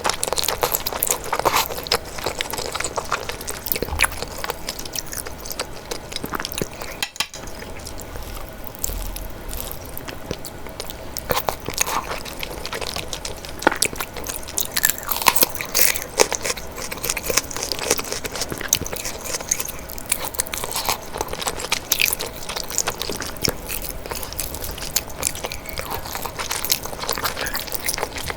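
Close-miked eating: biting and chewing with crisp crunches and crackling mouth clicks, briefly breaking off about seven seconds in.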